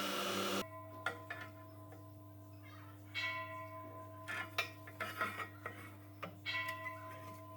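A loud noisy sound cuts off about half a second in. After that come light metallic clinks and short ringing tones, a few times, over a steady low hum.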